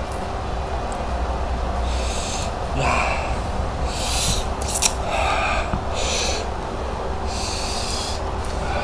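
A person huffing short breaths through the mouth while eating food that is too hot, a hissy puff about every second and a half.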